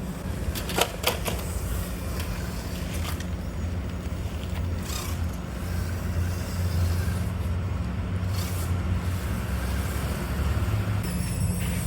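Mini RC crawler's small electric motor and gearbox running steadily, with two sharp clicks about a second in.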